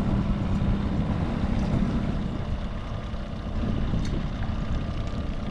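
Fishing boat's motor running steadily while trolling, a low hum under wind rumble on the microphone.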